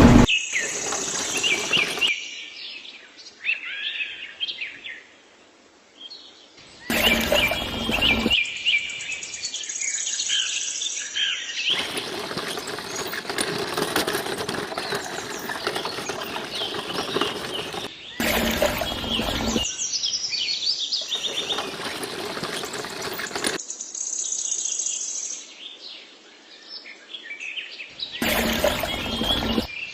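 Birds chirping, interrupted several times by stretches of harsh, noisy sound that start and stop abruptly.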